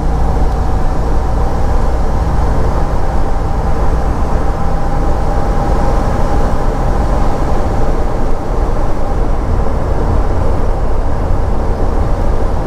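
Truck camper driving on the road, heard from inside the cab: a steady low engine and road rumble.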